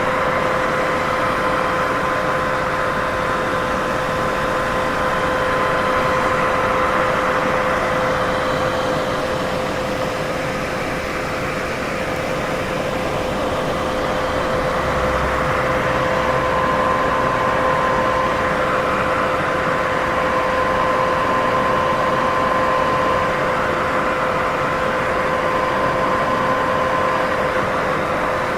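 Steady sleep-aid white noise: an even rushing hiss with a constant hum running through it, its loudness swelling and easing slightly.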